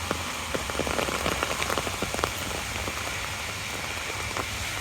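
Rain falling on an umbrella overhead: a steady hiss with many separate sharp drop taps, thicker in the first half.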